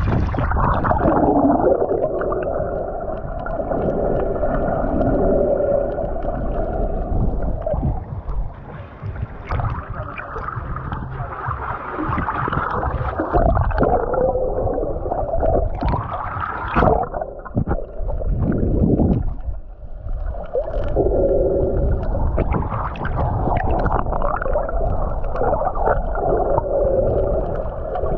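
Muffled underwater sound from a camera submerged in the sea: water sloshing and gurgling, with wavering low tones and a rising sweep about two-thirds of the way through.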